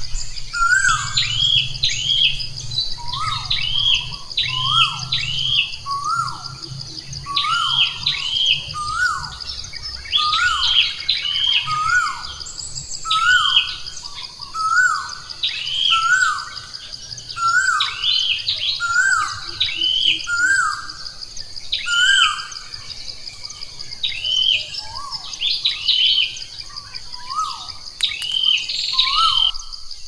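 Birds chirping: a short hooked call repeated about once a second, overlapped by higher chirps, over a steady high-pitched drone.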